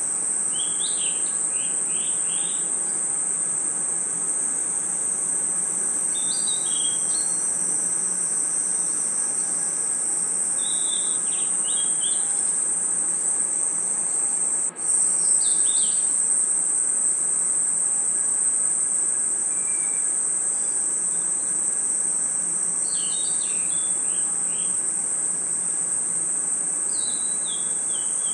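Night chorus of crickets and other insects: a steady, high-pitched continuous trill. Short clusters of chirping calls come in every few seconds, and there is a momentary dropout about halfway through.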